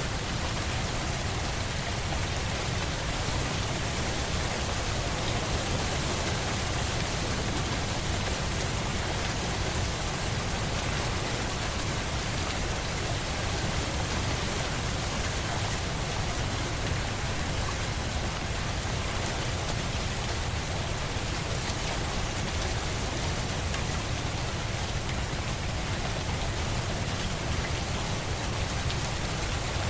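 Steady rain falling, an even hiss of many drops on a surface with no break or change.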